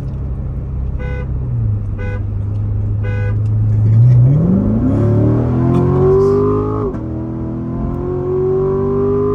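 Corvette Grand Sport V8 at full throttle from a 30 mph roll, heard from inside the car. Three short beeps about a second apart come first, then the revs climb steeply, drop sharply at an upshift about seven seconds in, and climb again.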